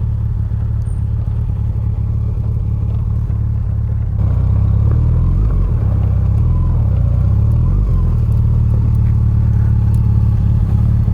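Yamaha FJR1300's inline-four engine running under way, a steady low drone that gets louder about four seconds in, with its pitch rising and falling several times as the bike accelerates and changes speed.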